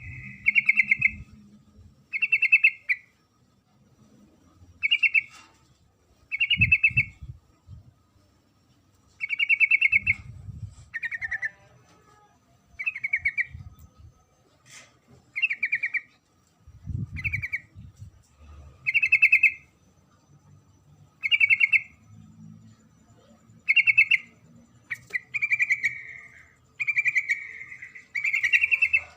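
Female yellow-vented bulbul (trucuk) giving short, rapid bubbly chattering calls, repeated about every two seconds, with the last few longer and running together near the end; a female calling to a male.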